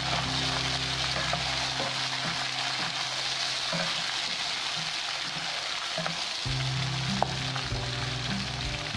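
Chopped tomatoes and fried onions sizzling in hot oil in a pan, stirred with a wooden spoon, with one sharp tap about seven seconds in.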